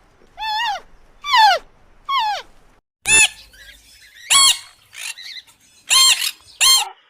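A goose honks three times, each call falling in pitch. About three seconds in it gives way to a different bird squawking four times in short, harsh calls.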